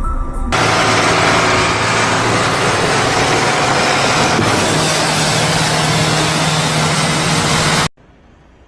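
A vehicle engine running loud under a strong rushing noise, with a steady low hum; it cuts off suddenly near the end, leaving a faint hiss.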